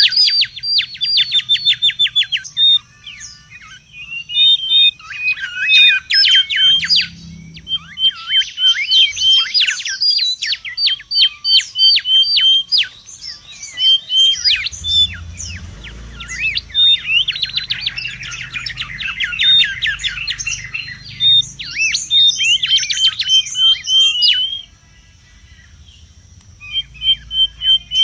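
Mangrove whistler calling busily: rapid runs of sharp, sweeping whistled notes in bursts of a few seconds, broken by short pauses.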